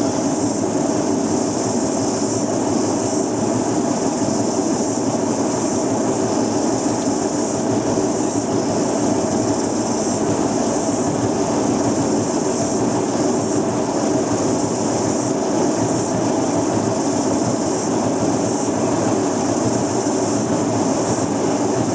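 Old top-loader washing machine spinning its drum steadily, loaded with lead-acid batteries, with a constant loud rumble and hiss from its noisy bearings.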